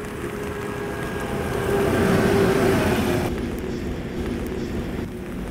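Night train pulling into the station: a steady rumble with a held tone that grows loudest about two seconds in. A little after three seconds it gives way suddenly to a quieter steady hum.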